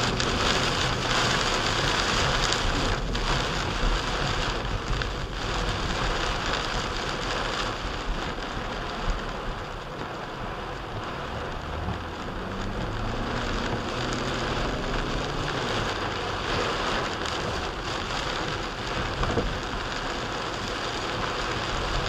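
Heavy rain beating on a moving car's windshield and roof, heard from inside the cabin as a steady hiss.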